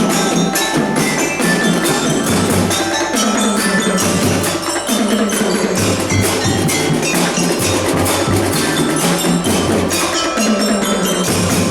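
Drum band playing: fast, dense drum and percussion strokes, with metal mallet bells ringing a melody over them.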